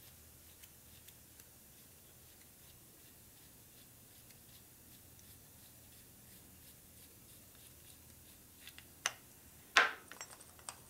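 Faint handling noises with small scattered ticks as a hand-held external hone tool is unscrewed, then a few sharp clicks and knocks near the end, the loudest just before the end.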